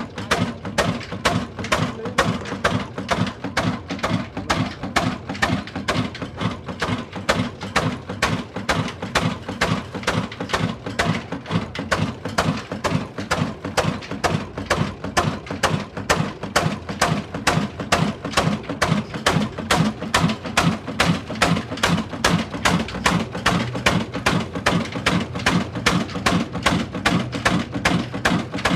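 Heavy old slow-speed diesel engine on a tubewell running steadily, its exhaust beating evenly at about two to three beats a second.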